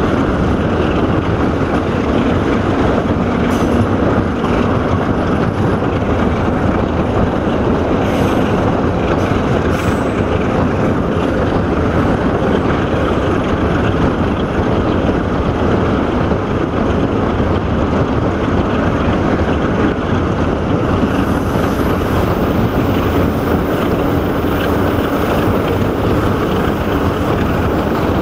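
Steady running noise of a passenger train at speed, heard from an open carriage window: wheels on the rails and wind rushing past the microphone. The wind hiss grows stronger about three quarters of the way through.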